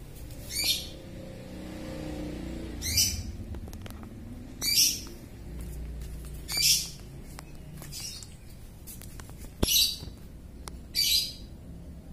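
A bird chirping: six short, high chirps spaced about one and a half to two seconds apart.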